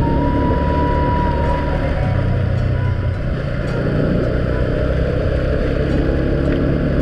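Vehicle engine running steadily while travelling along, with road noise, and a thin high tone over it for the first second or so.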